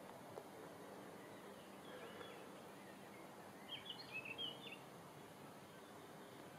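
Faint outdoor background noise with a bird chirping: a quick run of short, high notes about four seconds in, and fainter calls around two seconds in.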